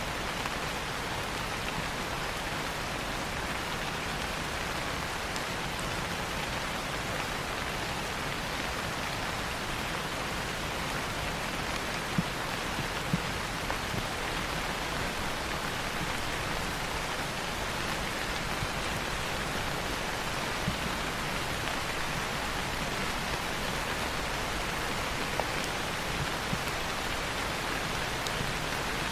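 Steady rain, with a wood fire in a fireplace crackling now and then in a few sharp pops.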